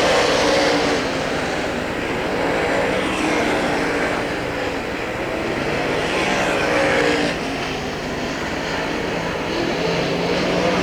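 Late model dirt-track race cars running hot laps, their engines at speed on the track. The sound swells and fades several times as cars come around.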